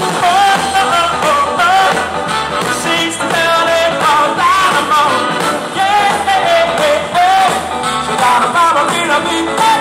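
Live rock and roll band playing with a steady beat, with singing.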